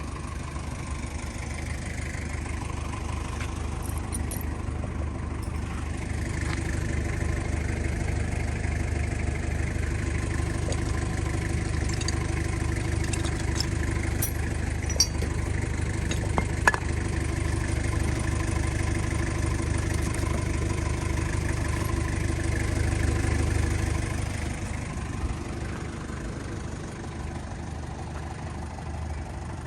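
Mazda Bongo Brawny's R2 diesel engine running steadily. It grows louder over the first several seconds, holds, and then eases back near the end. A couple of sharp clicks come about halfway through.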